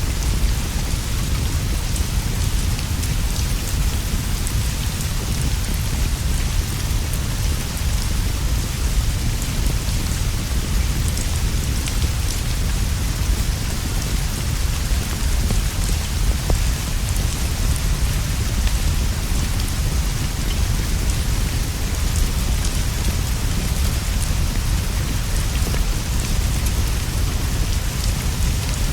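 Steady rain falling without a break, with a constant deep rumble underneath and scattered faint ticks and clicks.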